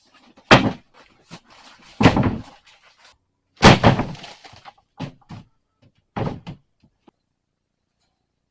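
A series of loud bangs and thumps, about six of them, some followed by a short rattle, with the biggest near the start and in the middle.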